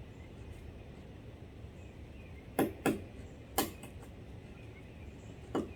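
Woodpecker pecking at wood while foraging: four separate knocks at an uneven pace, two close together about halfway through, a third a moment later and a fourth near the end.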